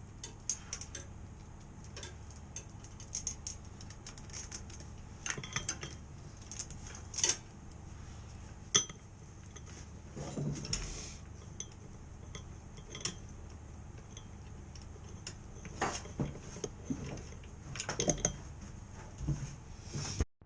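Metal tools and hardware clinking, clicking and knocking as they are handled, in irregular scattered strikes with a few louder knocks, over a steady low hum.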